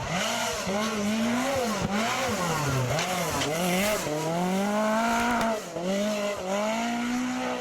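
Rally car engine revving hard, its pitch climbing and dropping back over and over as it is driven at speed.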